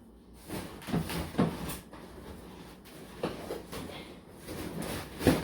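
Handling noises: a series of irregular knocks, scrapes and rustles, the loudest near the end.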